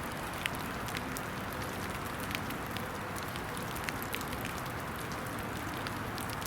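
Steady rain falling on a wet, snowy woodland, with scattered drops ticking sharply close by.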